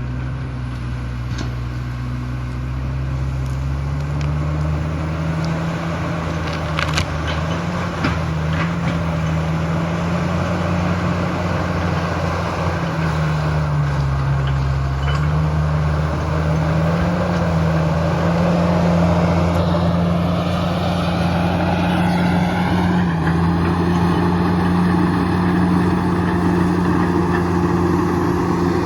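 Komatsu D68ESS bulldozer's diesel engine running steadily, its pitch dipping briefly near the start and again about halfway through. There are a couple of sharp knocks around a quarter of the way in, and a rising whine joins about two-thirds of the way through.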